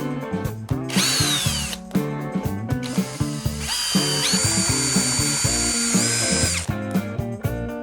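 A small electric power tool such as a drill runs in bursts over background music with a steady beat. One burst is a whine that falls as the motor spins down about a second in. Later a steady high whine starts, rises in pitch as it speeds up, and stops about two seconds later.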